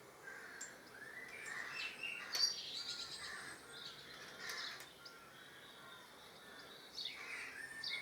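Small birds chirping and singing in the background, in short rising and falling calls. A single sharp click about two and a half seconds in.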